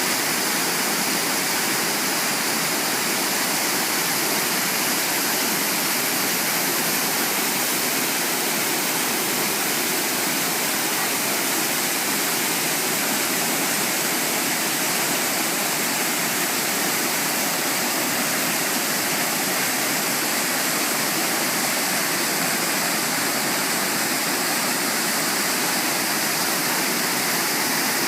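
Steady rush of fast-falling mountain water, an even, unbroken roar that holds the same level throughout.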